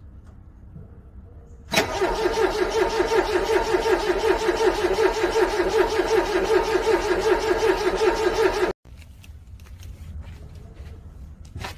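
Car engine cranking on its starter in freezing cold without catching: an even, rhythmic churning that starts suddenly a couple of seconds in, runs for about seven seconds and cuts off abruptly.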